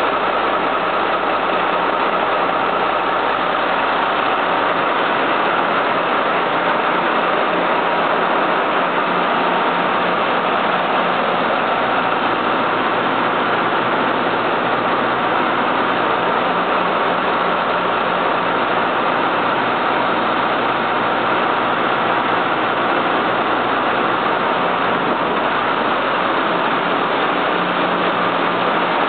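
Caterpillar marine diesel engine running steadily at an even speed.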